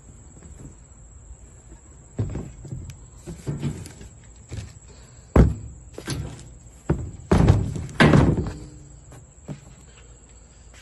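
A series of knocks and clunks, with the loudest near the middle and in two quick hits a little later, from metal motorcycle exhaust parts being handled and set down.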